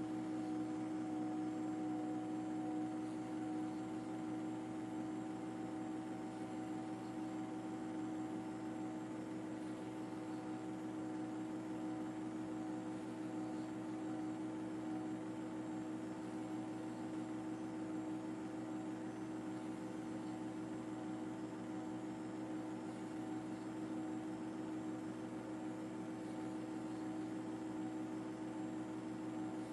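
A steady mechanical drone with several held tones over a constant hiss, unchanging throughout.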